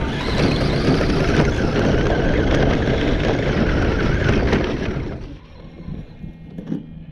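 Traxxas Raptor R and Slash electric RC trucks racing off the start at full throttle, motor whine mixed with tyre and gravel noise. The noise drops away about five seconds in.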